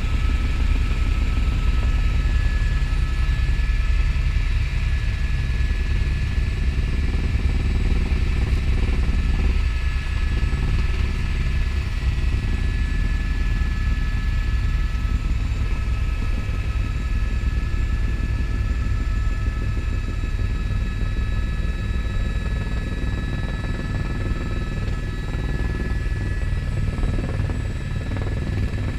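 Helicopter in flight: steady engine and rotor noise, a deep continuous rumble with a few thin, steady high whining tones above it.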